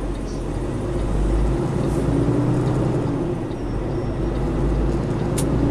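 Semi truck's diesel engine running with a steady low drone, getting louder about a second in.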